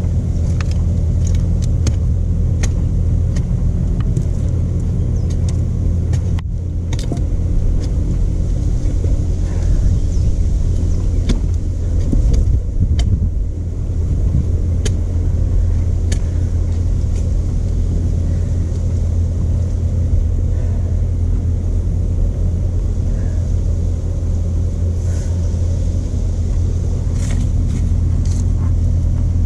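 A stump grinder's 13 HP Honda single-cylinder engine running steadily under power, with scattered sharp clicks and ticks over it.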